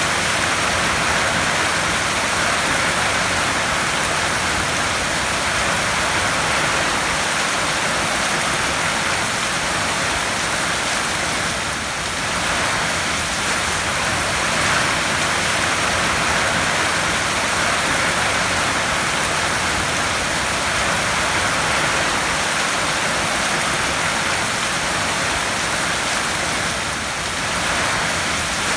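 Heavy rain drumming steadily on a tin roof, a dense, even hiss with two brief slight lulls.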